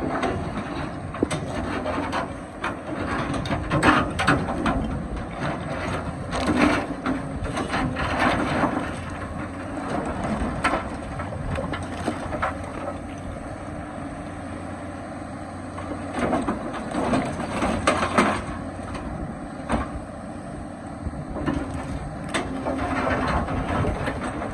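Excavator at work: its engine runs steadily under many irregular knocks and scrapes, typical of the bucket digging into rock.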